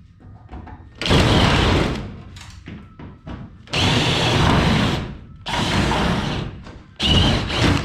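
Battery-powered drill running in four bursts of about a second each, taking the race car's body panels apart.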